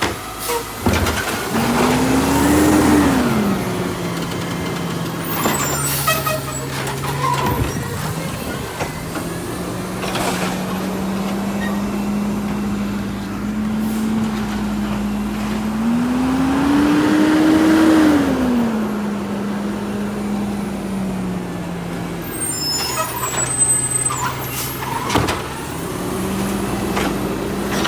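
Garbage truck's diesel engine running and revving up twice, then settling back, with air-brake hisses and a brief high squeal near the end.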